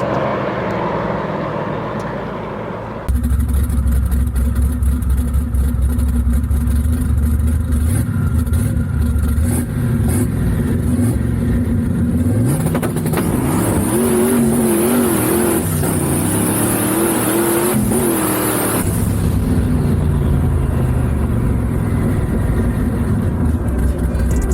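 Performance car engine running loud with a deep rumble, its pitch rising and falling in the middle as it is revved. A cut a few seconds in changes the sound to a louder, lower rumble.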